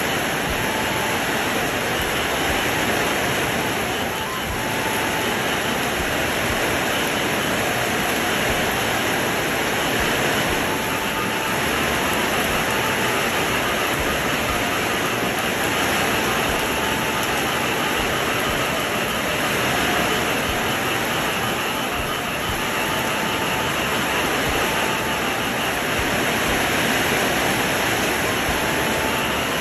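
Steady, dense rain, with faint held notes of a khloy (Khmer bamboo flute) heard now and then above it.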